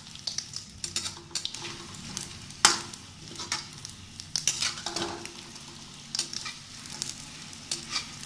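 Besan pakoras frying in hot oil in a metal kadhai, sizzling steadily, while a metal spatula scrapes and clinks against the pan as they are turned. The sharpest clink comes a little under a third of the way in.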